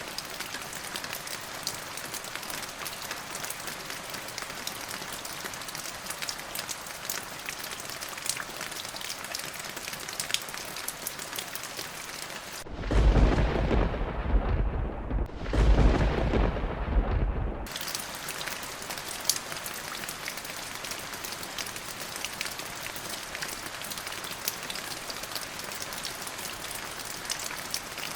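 Steady rain with a patter of drops. About halfway through, a loud rolling thunder rumble comes in two peaks lasting about five seconds, and the rain hiss drops away while it sounds.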